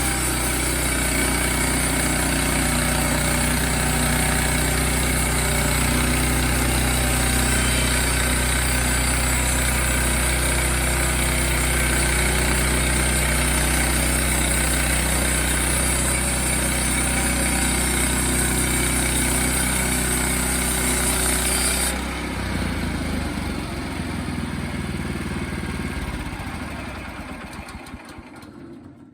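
Sawmill engine running steadily under a bright, high hiss. About two-thirds of the way through the hiss drops away, and near the end the engine winds down and stops.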